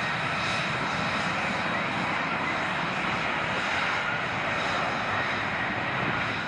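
Military jet aircraft engine, a steady, even noise with a faint high whine.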